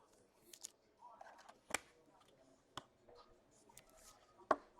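Faint handling of trading cards and pack wrappers: a soft rustle followed by a few separate sharp taps and clicks as cards are set down and sorted on the table.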